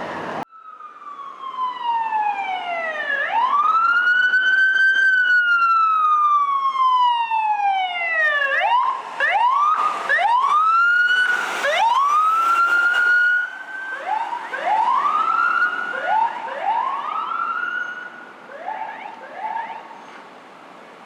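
Emergency vehicle siren on an LAFD fire engine or rescue ambulance. It wails in long, slow sweeps down and up, then switches to shorter rising sweeps about once a second, and fades over the last few seconds.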